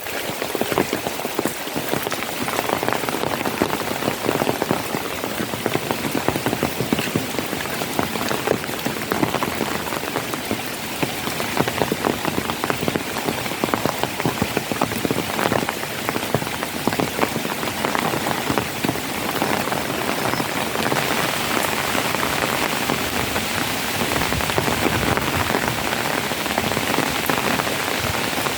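Steady rain falling: a continuous hiss dense with the small taps of individual drops striking surfaces.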